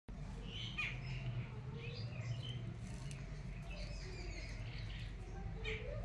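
Small birds chirping: scattered short, high calls with quick pitch slides, over a steady low background hum.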